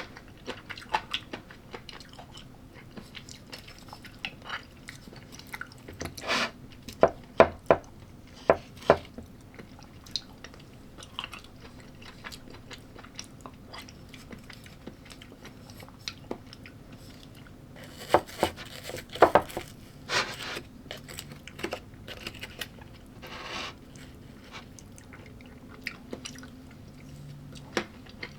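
A person chewing a mixed salad-and-meat meal with crunchy bits, close to the microphone. Wet chewing with scattered crisp crunches, louder bunches of crunches coming twice.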